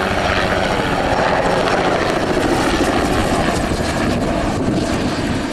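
An Agusta-Bell 206B helicopter flying a display: the loud, steady sound of its rotor and single turboshaft engine, with the higher sound thinning out near the end.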